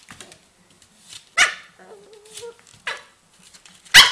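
A dog barking three times, a second or more apart, the last bark the loudest, near the end.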